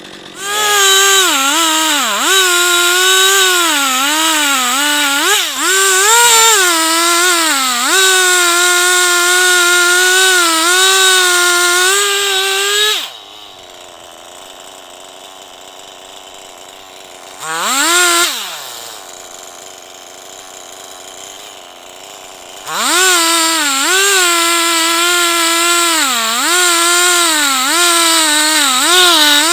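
Two-stroke chainsaw on an Alaskan-style chainsaw mill at full throttle ripping a log lengthwise, its pitch sagging and recovering over and over as the bar loads up in the cut. About halfway through it drops to idle, revs once briefly, then goes back to full throttle and the same sagging pitch near the end.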